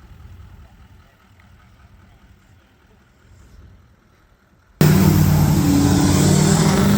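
A four-wheel-drive vehicle's engine rumbling faintly, then, about two-thirds of the way in, an abrupt jump to a loud, steady engine sound working hard with a rushing noise over it.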